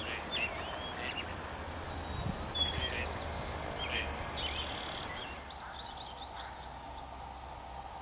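Small birds calling: scattered short chirps and a quick twittering run of notes, most of them in the first half, over a low steady background rumble.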